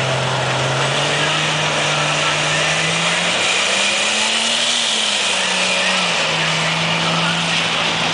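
A vehicle engine running with a steady drone that climbs slowly in pitch, peaks about halfway through and settles back, over a constant hiss of noise.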